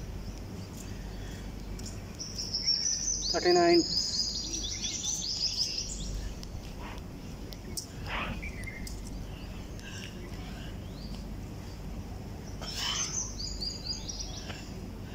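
Birds chirping and trilling: a burst of rapid high notes from about two to six seconds in, with a short lower call among them, a falling call about eight seconds in, and more high chirping near the end, over a steady low hum.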